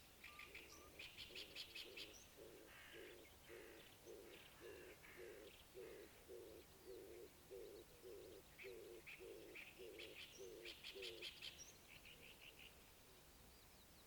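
Faint birdsong: high, quick chirps and trills, over a low call repeated evenly about twice a second that stops about eleven seconds in.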